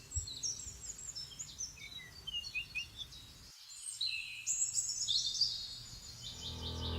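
Wild birds calling and singing: a busy mix of quick chirps and short whistled phrases, with a run of rapid repeated notes near the end. Music begins to fade in during the last half second.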